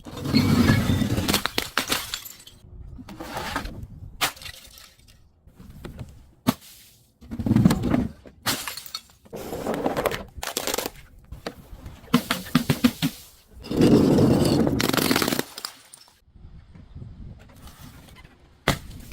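Glass bottles and other crunchy objects being crushed and breaking: repeated bouts of crunching and sharp cracks, with short pauses between them.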